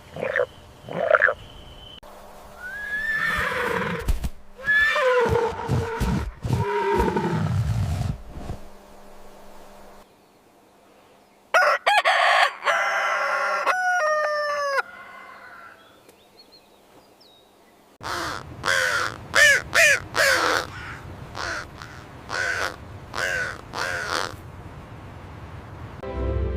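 Animal calls from several separate recordings played one after another: four bouts of pitched calls that glide up and down, with short gaps between them.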